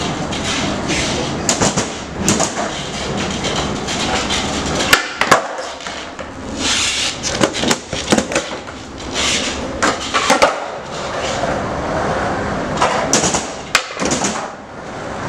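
Skateboard wheels rolling across a floor, broken by a series of sharp clacks from the board's tail popping and the board landing and hitting the floor.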